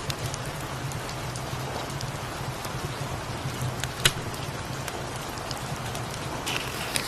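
Steady rain, with a cat's low purring underneath. A single sharp click, like a crackle from the fire, about four seconds in, and a brief rustle near the end.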